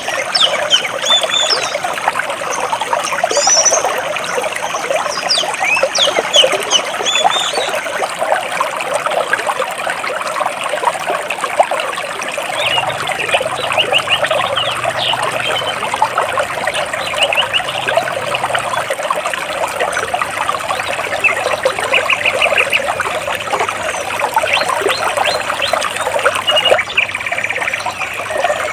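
Stream water splashing and gurgling between large rocks, loud and unbroken. Birds chirp above it, most busily in the first few seconds, with a rapid trill a little past the middle.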